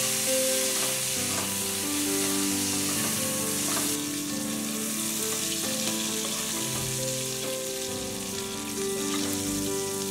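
Prawns sizzling in hot mustard oil in a kadai, a steady crackling hiss, while a wooden spatula scrapes and lifts them out, with a few light knocks against the pan. Background music plays over it.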